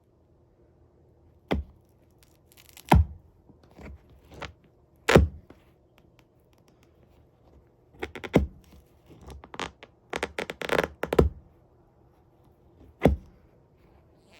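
Worn leather boat shoes being handled: a series of sharp knocks and short scrapes, with a busier run of them in the second half.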